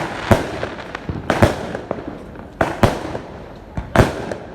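Fireworks bursting in the sky: about six sharp bangs at uneven intervals, each trailing off briefly.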